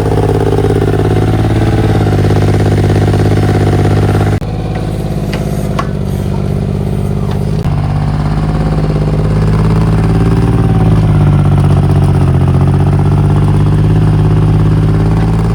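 Mini excavator engine running steadily under work, its pitch dipping and rising; the sound changes abruptly about four seconds in.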